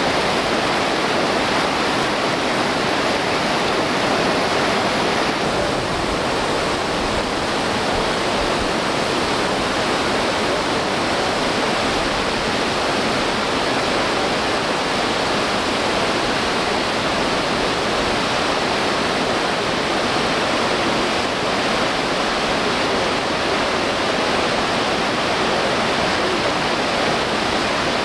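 Loud, steady rush of whitewater rapids on a river.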